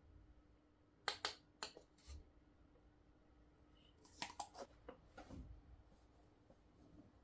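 Quiet room with a few short, light clicks and taps: a quick group of three about a second in, and another cluster a little past the middle.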